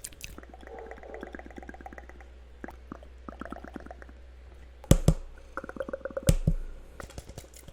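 Layered ASMR mouth sounds: fast wet clicks and pops, mixed with quick tapping. Two loud low thumps a little past the middle, about a second and a half apart.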